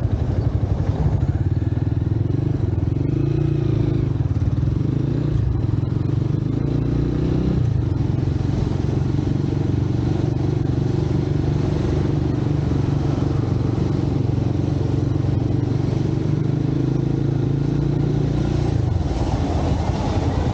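Motorcycle engine running at a steady pitch while riding. The engine note drops near the end.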